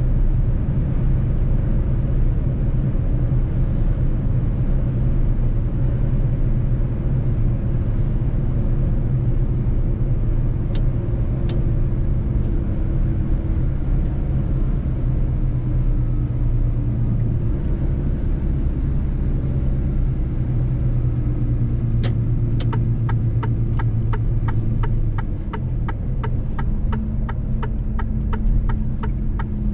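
Mercedes-Benz truck's diesel engine droning steadily on the road. A few single clicks fall about a third and two-thirds of the way in. Near the end the engine note eases and a fast, even clicking starts, about three clicks a second.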